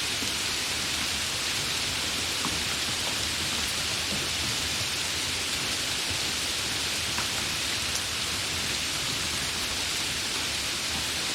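Rain falling steadily: an even hiss with scattered faint ticks of single drops.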